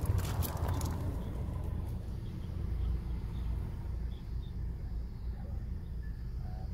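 Hyundai i20 1.2 petrol engine idling, heard as a steady low rumble, with a few sharp clicks in the first second.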